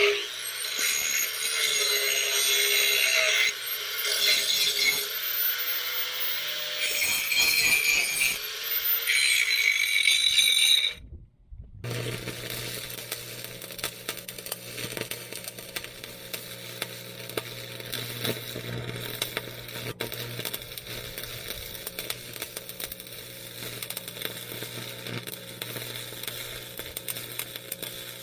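A power grinder working steel, its motor pitch dipping and recovering as it is loaded. After a cut about eleven seconds in, an arc welder laying a bead on the loader's steel uprights: a steady crackle over a low electrical hum.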